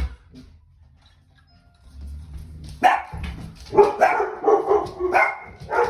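Shepsky puppy barking: a run of short, loud barks begins about three seconds in, after a single sharp knock at the start.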